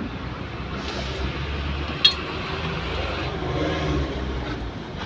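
A steady low rumble, like a passing motor vehicle, with one sharp click about two seconds in.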